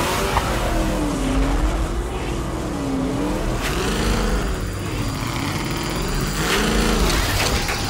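Cartoon monster truck engine running and revving as it drives, its pitch rising and falling in repeated waves over a deep rumble.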